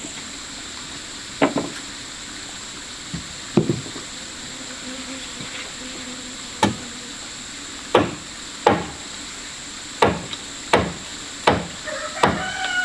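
Hammer blows on wood, about nine separate strikes spaced irregularly about a second apart, with a short squeak near the end. A steady high insect drone runs underneath.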